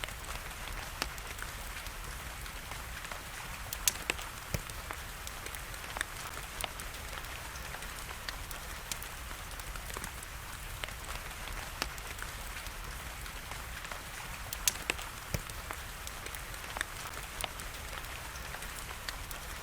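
Steady rain hiss with irregular sharp pops and crackles of a burning wood fire, the loudest pops about four seconds in and again near fifteen seconds.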